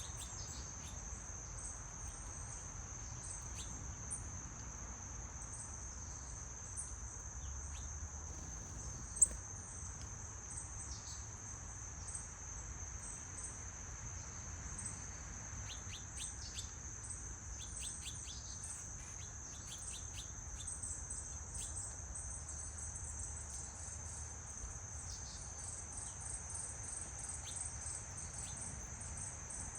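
Steady high-pitched trill of insects, with short bird chirps scattered through it. One sharp click about nine seconds in.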